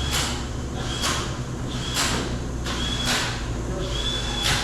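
Repeated scraping or rubbing strokes at an engine-building bench, about one a second, each with a brief high squeak at its start, over a steady low hum.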